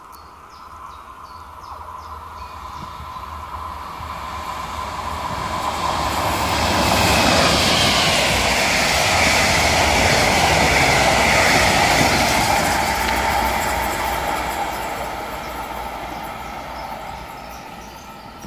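Double-deck RE1 regional express train passing through the station at speed. Its rushing rumble of wheels on rails builds as it approaches, stays loud for several seconds and fades away. A high whine drops in pitch as it goes by.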